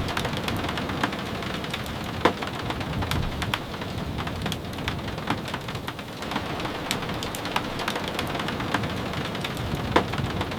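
Steady rain hissing, with many sharp ticks scattered through it, two of them louder: one a couple of seconds in, one near the end.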